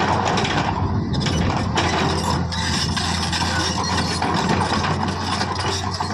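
JCB 3DX backhoe loader's diesel engine running steadily under dense metallic clatter and rattling from the machine at work.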